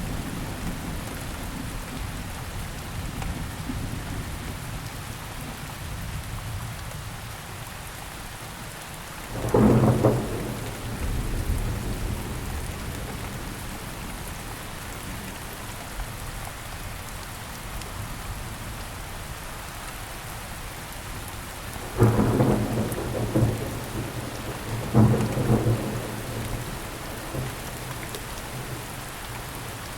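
Steady rain falling, with three sudden loud cracks of thunder: one about ten seconds in and two close together in the last third, each trailing off into a low rumble.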